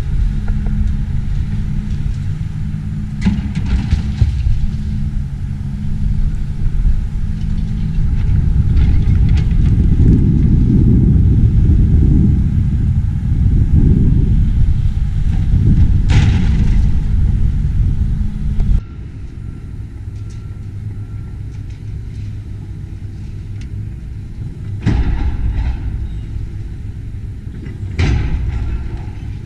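Engine of a heavy demolition machine running steadily, growing louder for several seconds in the middle. About two-thirds of the way through it drops suddenly to a quieter low rumble, with a few brief knocks near the end.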